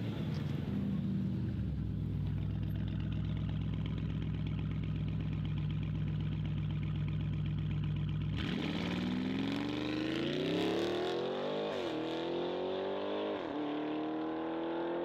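Car engine running with a steady, deep drone, then another car accelerating hard, its engine pitch climbing, dropping sharply at two gear changes and climbing again.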